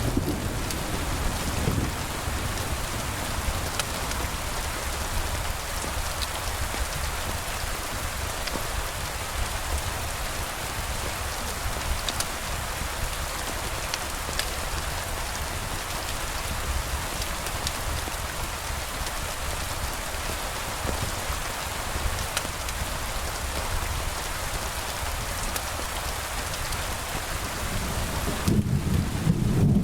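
Steady rain falling, an even hiss, with a low rumble underneath. A louder roll of thunder sets in near the end.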